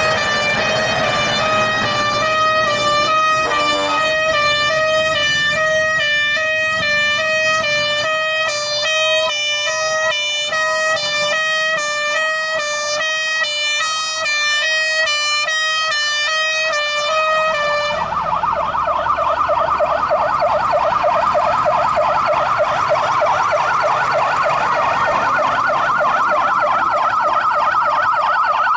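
Emergency-vehicle siren sounding as the convoy passes. It alternates between two tones at first, then about two-thirds of the way in switches to a fast warbling wail.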